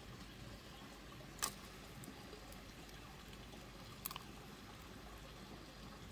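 Faint steady hiss with two short, sharp knocks: one about a second and a half in, and a quick double knock about four seconds in.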